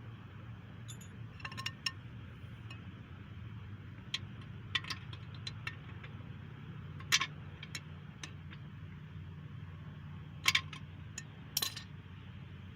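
Metal pieces of a camshaft bearing removal tool clinking and knocking together as they are handled and fitted, in irregular sharp clinks, the loudest about seven and ten and a half seconds in. A steady low hum runs underneath.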